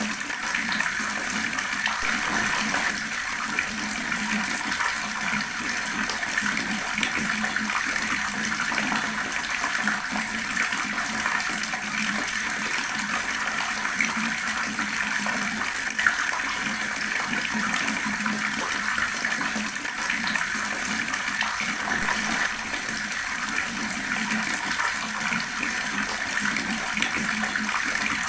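Water tap running, a steady gurgling stream of water splashing without a break.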